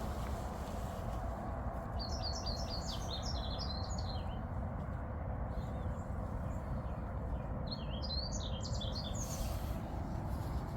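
Varied tit singing: two short bouts of rapid high chirps, the first about two seconds in and the second near the eight-second mark, over a steady low rushing background noise.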